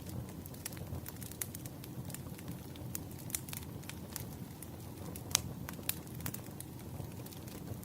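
Burning firewood crackling: a steady low rumble of the fire with scattered sharp pops and snaps, the loudest pop about five seconds in.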